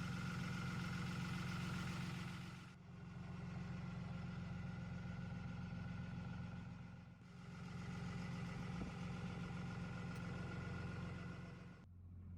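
2005 Dodge Ram 2500 heavy-duty pickup's engine idling steadily, with brief dips about three, seven and twelve seconds in.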